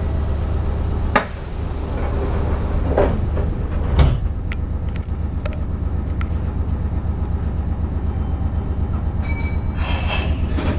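Meitetsu 5300 series electric train running, heard from inside the car: a steady low rumble with sharp wheel knocks over rail joints about a second in and again about four seconds in. A brief high ringing tone sounds near the end.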